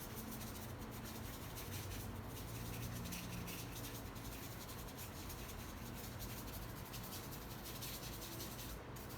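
Faint scratchy rubbing of a paintbrush dry-brushing white paint onto a canvas, over a steady low hum.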